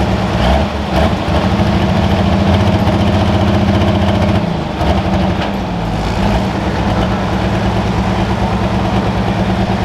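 Turbocharged diesel engine of a Limited Pro Stock pulling tractor running at a steady low speed, with its pitch dipping and then coming back up about five seconds in.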